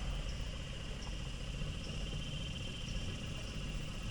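Small dinghy outboard motor running slowly with a low, steady drone, and insects buzzing in a steady high tone over it.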